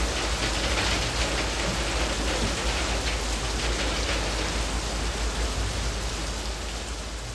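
Heavy rain falling on leaves: a dense, steady hiss of countless drops pattering on wet foliage. It begins fading out slowly in the last couple of seconds.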